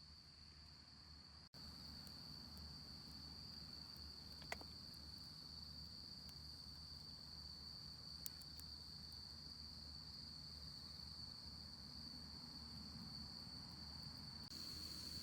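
Faint, steady chorus of crickets trilling on one high pitch, with two small clicks about four and eight seconds in.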